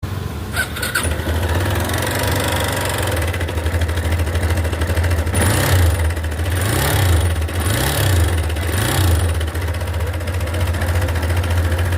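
Yamaha Fazer 250's single-cylinder four-stroke engine idling steadily, blipped briefly four times about halfway through.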